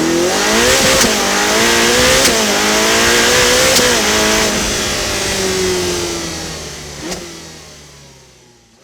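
Car engine accelerating hard, its pitch climbing in three steps with a short break between each like gear changes, then sliding down in pitch and fading away as it drives off.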